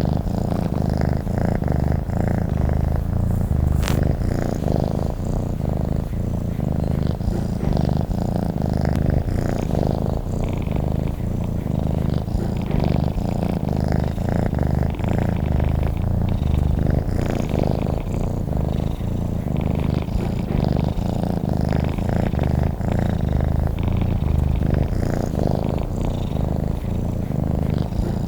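Domestic cat purring: a steady, low, continuous rumble of rapid pulses.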